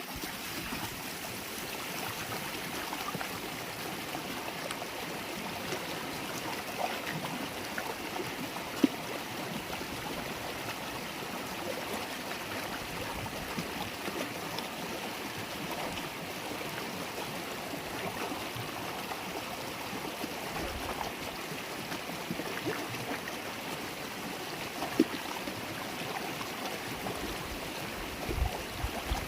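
River water babbling and trickling over stones, a steady rushing flow. Twice, about nine and twenty-five seconds in, a brief sharper sound stands out above it.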